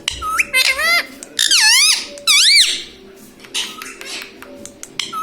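Ringneck parrot giving shrill, squeaky calls: a few short calls, then two longer ones that swoop up and down in pitch.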